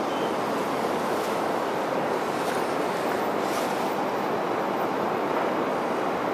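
Steady rumbling run of a 251 series Super View Odoriko electric train moving away along the track, an even rolling noise with no horn.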